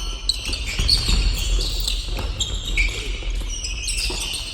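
Basketball game play on an indoor court: a ball bouncing and players' shoes squeaking in short, high chirps, all echoing in the gym.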